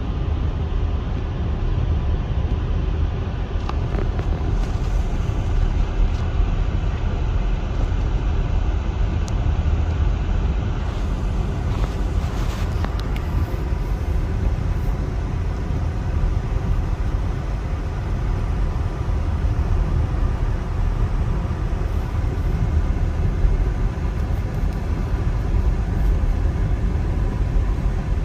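A car driving on a snowy road: a steady low rumble of engine and tyre noise, with a few faint ticks about halfway through.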